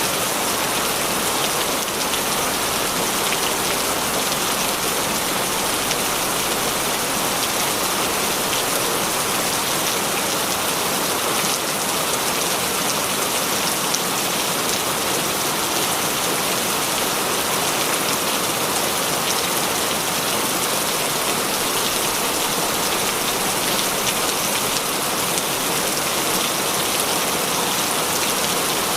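Heavy rain falling steadily, a dense even hiss of drops with fine pattering ticks on a surface.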